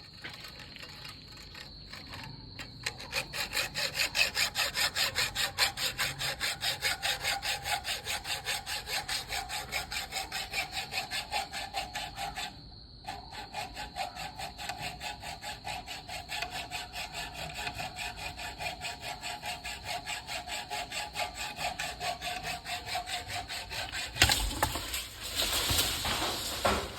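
Wood being sawn by hand, with even back-and-forth strokes at about three a second and a brief pause about halfway. About three seconds before the end comes a louder, rougher burst of noise.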